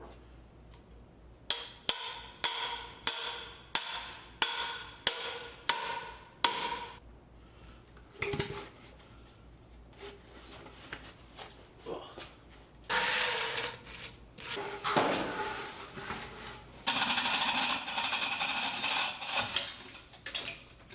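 A hammer striking metal about eight times in a steady rhythm, each blow ringing. Then scattered knocks and two longer noisy stretches of tool work.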